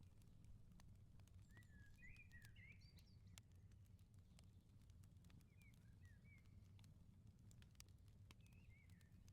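Wood fire crackling with scattered sharp pops over a low steady rumble, while a small bird chirps a few short, quick phrases.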